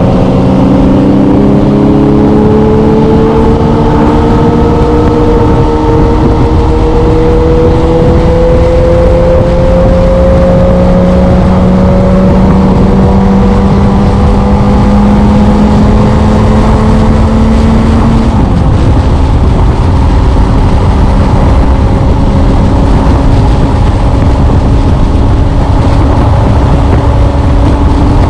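Motorcycle engine running under way, its pitch climbing slowly for most of the time and then dropping about two-thirds of the way through, as at a gear change or easing off the throttle. A steady rush of noise, like wind on the microphone, lies under it.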